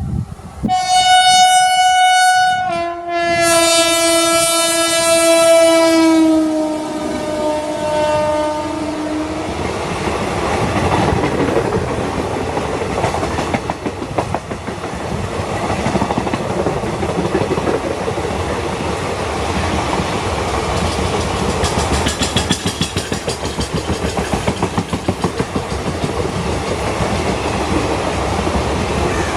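Express passenger train passing close by: the locomotive's horn gives a short blast, then a longer one that drops in pitch as the engine goes past. Then comes the steady rumble and clickety-clack of the coaches running by, with a regular wheel beat over the rail joints in the later seconds.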